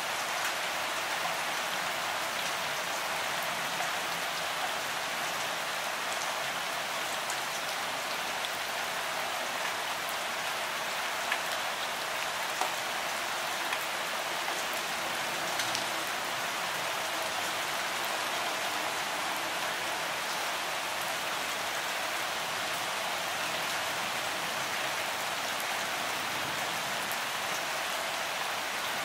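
Steady rain falling, an even hiss with no let-up, with a few sharper taps of single drops landing close by in the middle.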